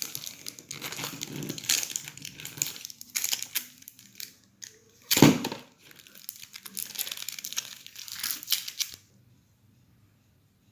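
Packaging being crinkled and torn while a product box is unpacked, with one louder rustle about halfway through; the handling stops near the end.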